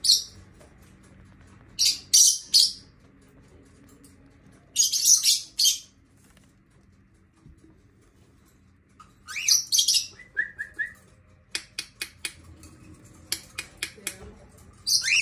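Pet cockatiels calling: harsh, screechy chirps in separate bursts every few seconds, with a few short rising whistled notes near the middle. A run of sharp taps follows after the whistles.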